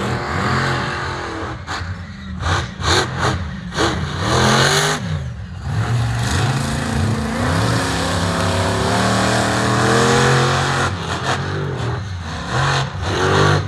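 Monster truck engine revving hard in uneven bursts, with quick throttle blips about two seconds in and again near the end and a longer sustained pull in between, the pitch rising and falling: a novice driver getting a feel for its throttle response.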